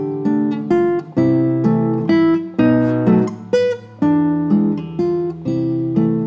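Solo acoustic guitar playing a plucked melody over bass notes at a moderate, even pace of about two notes a second.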